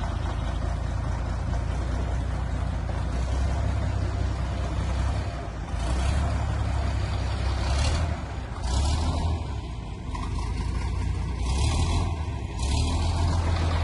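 Heavy tractor's diesel engine running with a steady low rumble, swelling about four times in the second half as it is put under load, each swell bringing a harsher high hiss and rattle.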